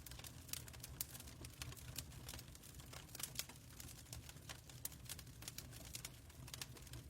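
Wood fire crackling in a fireplace: quick, irregular pops and snaps over a steady low rumble.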